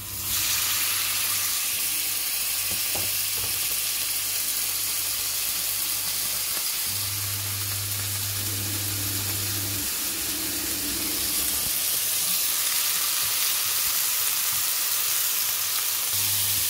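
Diced raw chicken breast sizzling in a frying pan in a teaspoon of vegetable oil; the sizzle starts suddenly as the pieces go into the hot pan and then runs on steadily.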